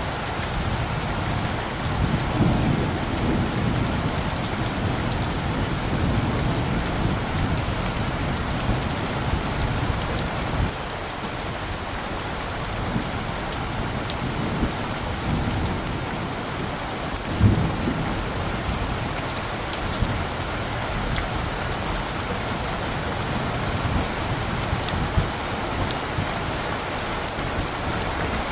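Steady rain falling, with light, low thunder rumbling in the background through the first third and a short low rumble about two-thirds of the way in.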